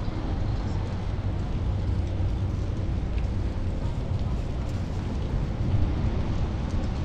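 Steady wind rumble on a bicycle-mounted action camera while riding, with street traffic.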